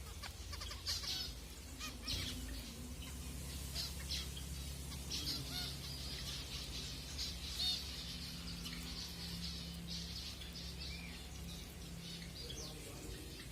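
Zebra finches giving many short, repeated nasal calls, over a steady low hum.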